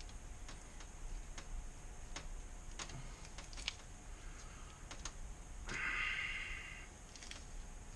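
Scattered light clicks and taps of small knife-handle parts (spacers, copper pieces, antler) being handled and fitted during an epoxy glue-up, with one short rasping scrape about six seconds in.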